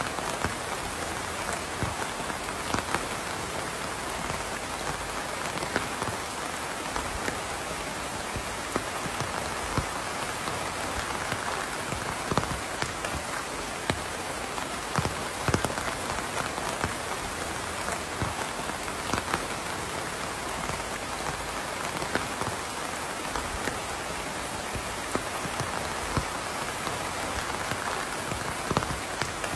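Steady rain falling on a surface, a constant hiss with many individual drops landing as scattered sharp ticks and taps.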